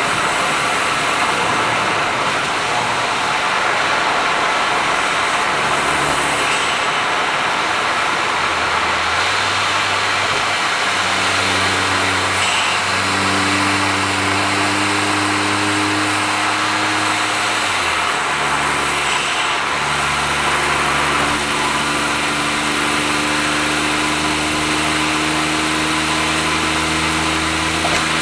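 Honda S660's turbocharged 660 cc three-cylinder engine, with an HKS exhaust, running at expressway speed under steady road and tyre noise. Its note climbs slowly, steps down once about two-thirds of the way through, then slowly climbs again.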